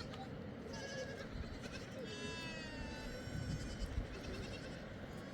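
Goats and sheep bleating: a few high, drawn-out calls, the longest about two seconds in with a slowly falling pitch, over steady low background noise.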